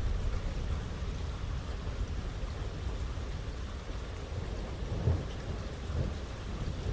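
Thunderstorm: heavy rain pouring steadily with low rolling thunder rumbling underneath, the rumble easing in the middle and building again near the end.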